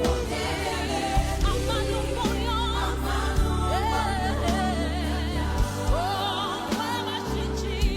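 Gospel worship song: singers with wavering vibrato held notes over a steady heavy bass, with occasional drum hits.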